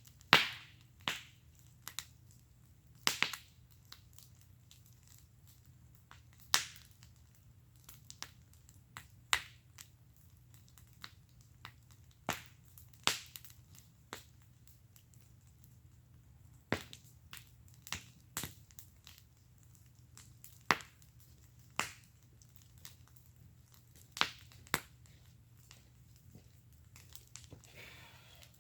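Wood burning in a fire pit, crackling with sharp, irregular pops, some much louder than others, about one to two a second. A faint low hum sits underneath.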